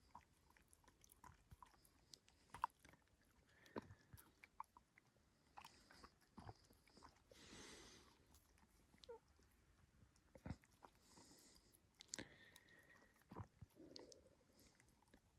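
A dog chewing and crunching its food: faint, irregular crunches and clicks.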